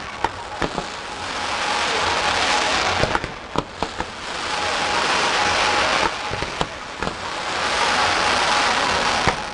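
Aerial fireworks display: sharp bursting bangs, with three long swelling waves of dense crackling hiss between them.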